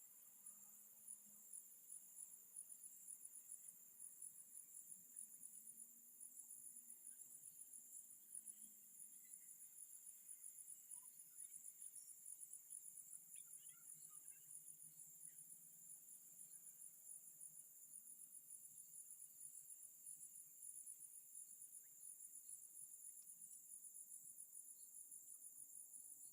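Crickets trilling steadily in a faint, high, fast-pulsing chorus.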